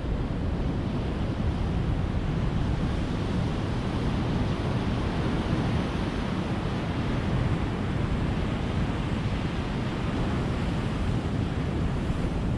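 Ocean surf washing steadily, with no single wave break standing out.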